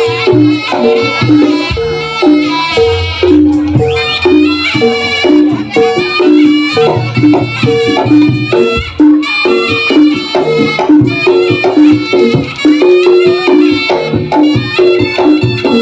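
Javanese jaranan ensemble playing live: a shrill slompret (reed shawm) melody over kendang drums and a steadily repeating figure of tuned gong-chime notes alternating between two pitches.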